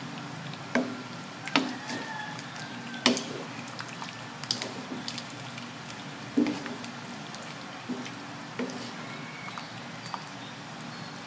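Wooden spatula stirring a thick, saucy pork stew in an aluminium wok, with wet squelching of the sauce and irregular sharp knocks of the spatula against the pan, about seven in all.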